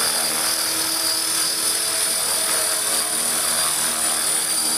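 Align T-Rex 450 electric RC helicopter hovering: a steady high whine from its electric motor and gears over the hum of the spinning rotor.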